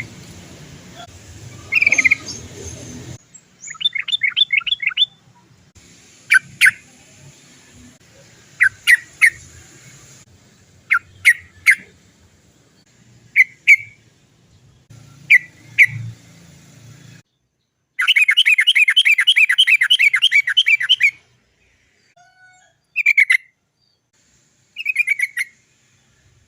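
Yellow-vented bulbul (trucukan) calling in short bursts of quick 'cok cok cok' notes, repeated every second or two. In the second half it breaks into one long rolling trill of about three seconds.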